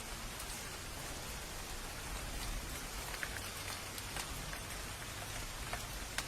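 Steady rain, with individual drops landing close by as sharp ticks about once a second, over a low steady rumble.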